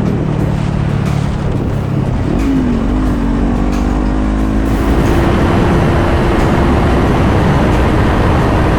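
A motor vehicle engine running under way, most likely a motorcycle, its pitch wavering briefly about two and a half seconds in, over steady road and wind noise that grows louder about five seconds in.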